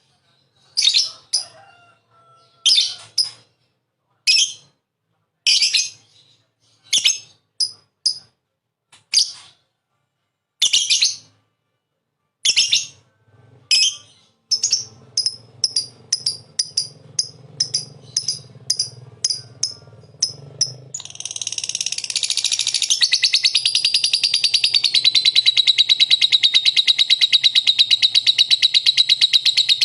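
Lovebird (Agapornis) calling in sharp, high, separate chirps that come quicker and evenly spaced about halfway through. About two-thirds of the way in it breaks into a loud, continuous, fast rattling trill that holds to the end.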